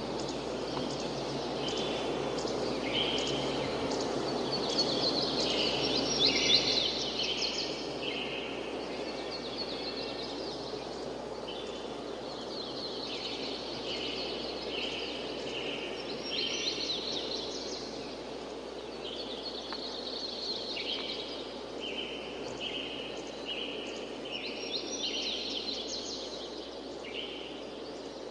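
Birds chirping and trilling in many short, overlapping calls over a steady rushing background of wind and rain noise. The birdsong is busiest about five to seven seconds in.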